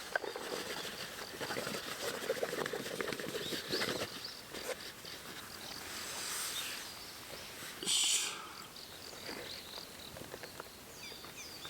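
A camp fire stand being taken apart and packed away by hand: irregular light clatter and rustling, with a brief scraping burst about eight seconds in.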